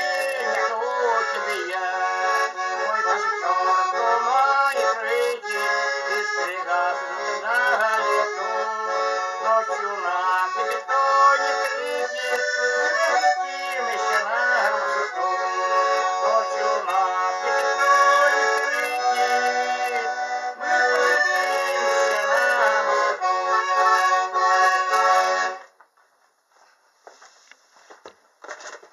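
Accordion playing the instrumental ending of the song, a melody over sustained chords with no singing. The music cuts off suddenly near the end, leaving only a few faint knocks.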